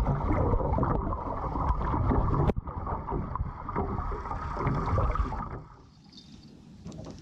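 Boat moving over the water with heavy wind rumble on the microphone. There is a sudden break about two and a half seconds in, and the noise falls away after about five and a half seconds, leaving a few faint clicks.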